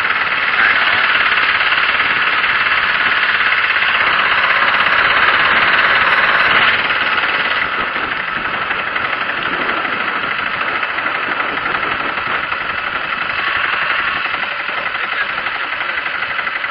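Single-cylinder 6.5 hp Predator four-stroke engine on a jon boat's mud motor running steadily at low throttle while the boat cruises, easing a little quieter about seven seconds in.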